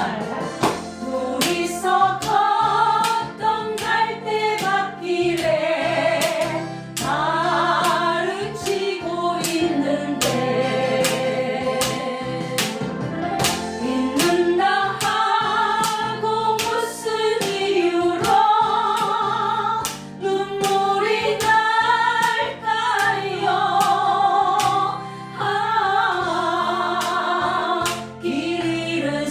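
Women singing a slow Korean ballad with vibrato over an accompaniment track, sounding like several voices together.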